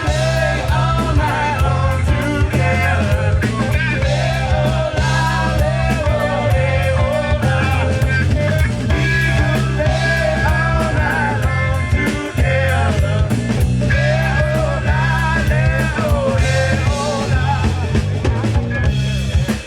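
Live rock band playing with electric guitar, electric bass and drum kit: a wavering lead line over a steady bass and drum groove.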